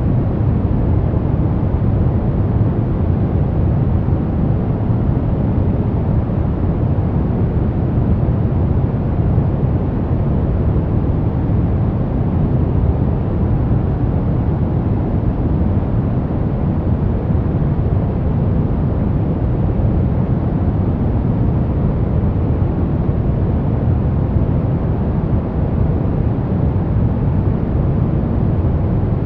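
Steady, unbroken sleep noise: a deep, even rushing hiss with most of its weight in the low end and little treble, not changing at all.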